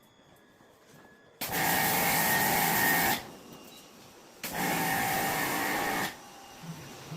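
Air-conditioner cleaning equipment switched on in two bursts of about two seconds each, a loud hiss with a steady whine in it, starting and stopping abruptly.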